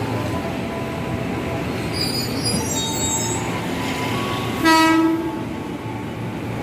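KRL commuter electric train running into the station with a steady rumble and thin, high wheel squeals. A short horn blast sounds about four and a half seconds in.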